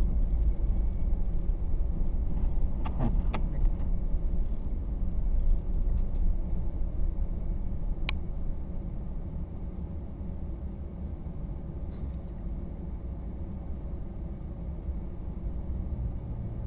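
Car driving through snow: a steady low rumble of engine and road noise that eases slightly about halfway through, with a few short clicks about three seconds in and one sharp click about eight seconds in.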